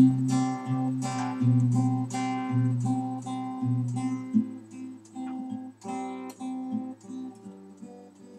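Acoustic guitar strumming chords in a steady rhythm as a song's introduction, before the singing comes in. About halfway through the playing drops to quieter, sparser picked notes.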